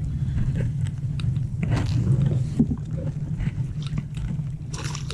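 Steady low rumble of a kayak on the water, heard from a body-mounted camera, with scattered light clicks and knocks.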